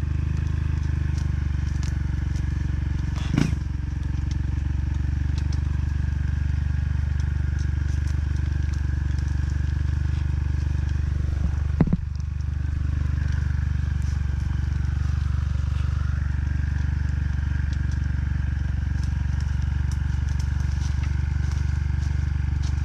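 Motorcycle engine idling steadily at an even pitch, with a single sharp knock about halfway through.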